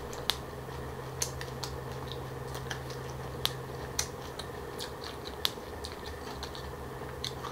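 Close-miked chewing of crunchy green papaya salad with pig ear: irregular crisp crunches and mouth clicks, over a faint steady low hum.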